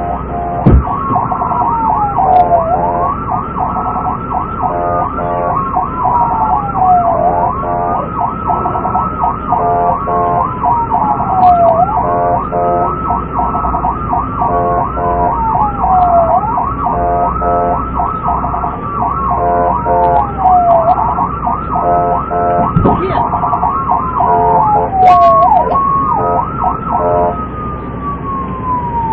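Police sirens sounding steadily: one wails in slow falling sweeps about every four and a half seconds while another yelps rapidly over it. Two sharp clicks, one just under a second in and one about three-quarters of the way through.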